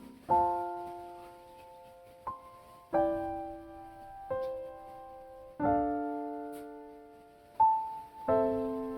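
Slow, soft solo piano music: sparse chords and single notes struck every second or two, each left to ring and fade.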